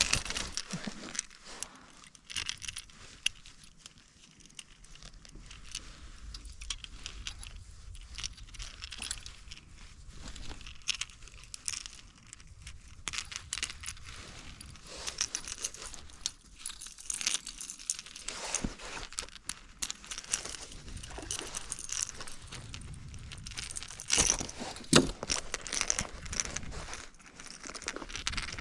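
Irregular small clicks, rattles and crinkling of fishing gear being handled, with a few sharper clicks about 24 seconds in.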